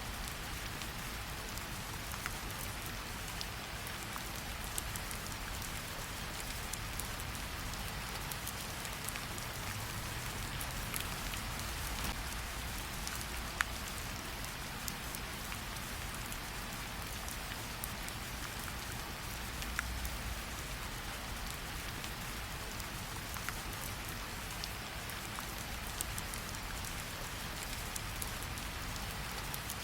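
Steady rain with a campfire crackling: an even hiss of rain, with scattered sharp pops and ticks.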